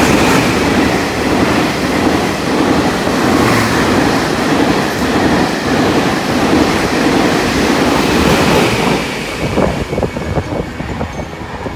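Taiwan Railways passenger train passing close along the platform: a loud rush of coaches and wheels on the rails. It dies down about nine seconds in, with a few last clicks of the wheels as the end of the train goes by.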